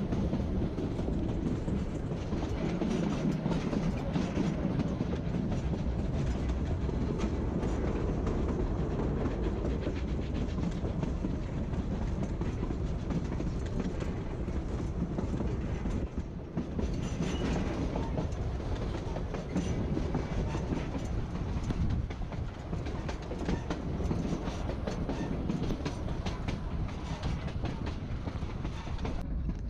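Narrow-gauge train running on the rails, with steady rolling noise and wheels clicking over the track.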